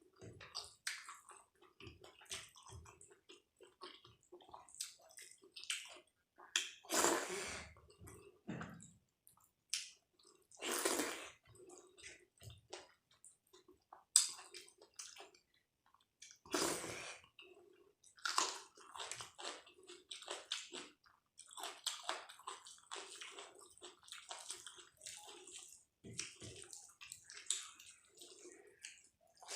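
Close-miked wet eating sounds of dal and rice: chewing, lip smacks and squelches, with irregular soft clicks and a few louder bursts.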